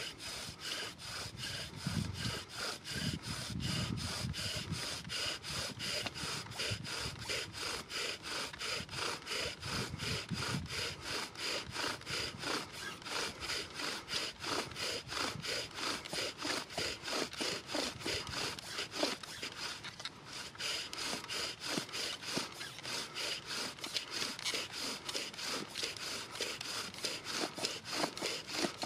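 Rhythmic back-and-forth strokes working on wood, about three a second and very even, with a steady high squeal running through them.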